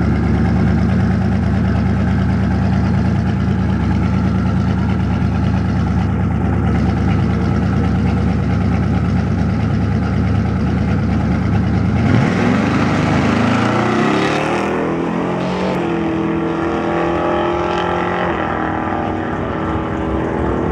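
Twin-turbo Chevrolet S10 pickup's engine idling steadily, then revved about twelve seconds in, its pitch climbing and swinging before holding at a higher steady speed.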